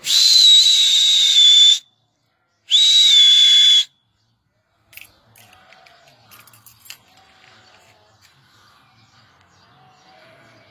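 Two long, loud, steady whistle blasts, the first nearly two seconds and the second a little over a second, given as a call for rams to run out of their pen. Faint sheep bleats follow.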